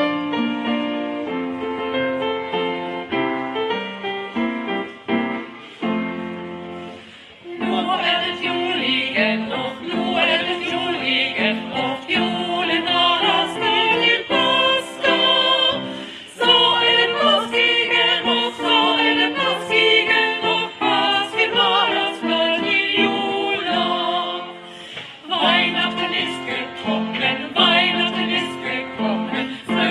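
Group of singers performing a Swedish Christmas song in Swedish with instrumental accompaniment. About seven seconds of instrumental introduction come before the voices enter.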